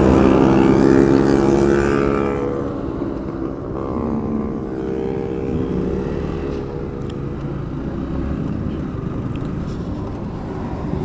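Motorcycle engine running on the road over steady wind and road noise. The engine note is loud for the first two seconds, then falls away, with a second, shorter engine note about four seconds in.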